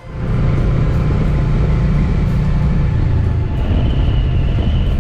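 Motorcycle running at road speed, a steady low engine drone under heavy wind noise on the microphone. It starts abruptly, and a faint high whine joins in after about three and a half seconds.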